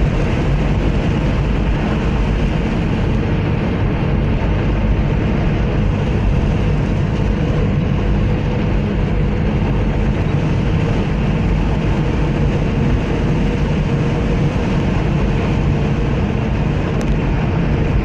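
Strong wind buffeting the microphone over the steady noise of a vehicle on the road: a loud, even rumble with a faint steady hum.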